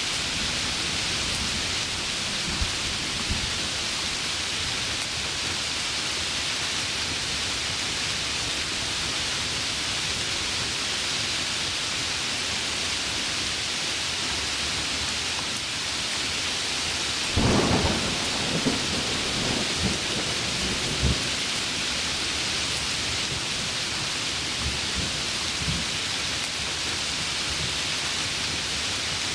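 Heavy rain falling steadily, with a rumble of thunder that crackles over several seconds past the middle.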